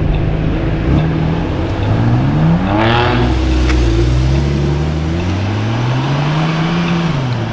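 A performance car's engine revving as it drives off. The pitch climbs steeply about two to three seconds in, holds, then rises slowly again and drops back near the end.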